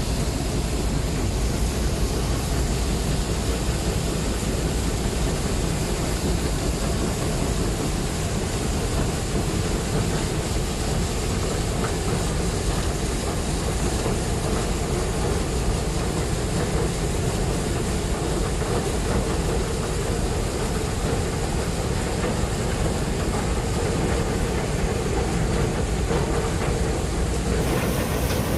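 Combine harvester running steadily, a continuous dense mechanical drone with no change in level.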